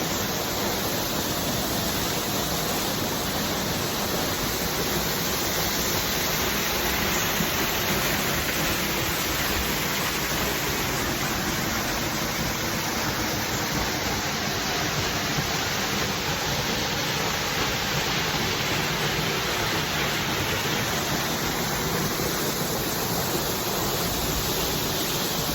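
Waterfall crashing: a loud, steady rush of falling water that does not let up.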